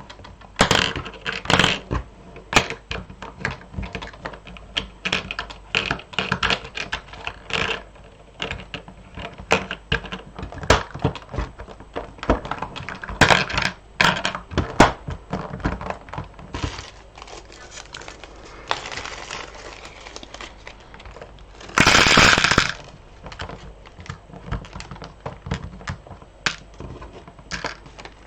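Loose beads clicking and rattling as they are handled and sorted: many small, irregular sharp clicks. About 22 seconds in there is a louder burst of rustling noise lasting about a second.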